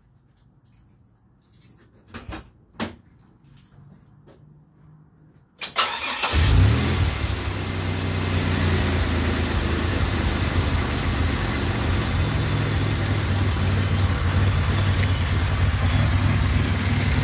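A few faint clicks, then the supercharged V6 cranks and starts about six seconds in, flares briefly and settles into a steady idle. It is running on a freshly fitted serpentine belt and tensioner, with the tensioner holding steady.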